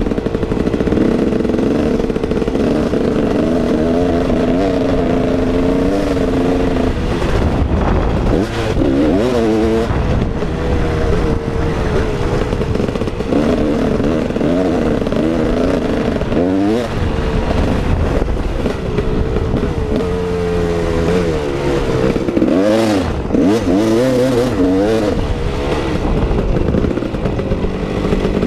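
KTM 380 EXC two-stroke engine being ridden hard, revving up and dropping back again and again, its pitch rising and falling in repeated sweeps.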